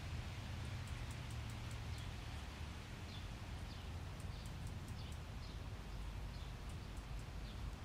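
Small birds chirping, a run of short, quick calls that fall in pitch, over a steady low rumble.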